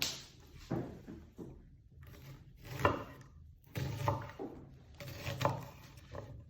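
Knife slicing a red (Spanish) onion on a chopping board: a series of irregular knocks of the blade against the board, with some scraping.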